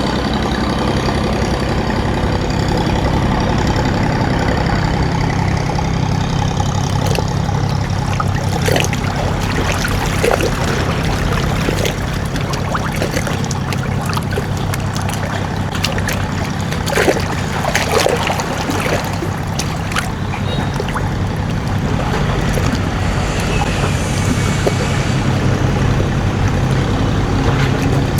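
Boat engine running steadily, with water splashing and trickling at times.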